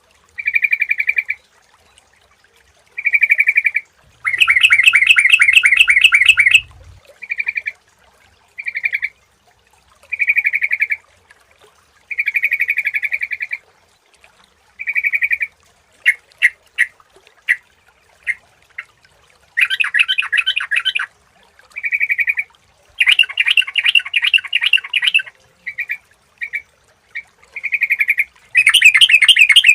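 Sooty-headed bulbuls singing: short clear phrases repeated every second or two, broken by several longer, louder bursts of rapid chattering notes.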